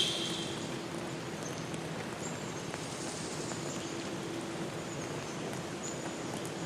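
Forest ambience: a steady hiss of rain or rushing water, with a few short, thin, high bird calls and one louder call right at the start.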